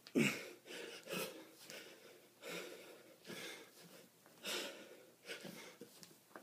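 A man breathing hard and rhythmically during a kettlebell workout, with short forceful breaths about once a second.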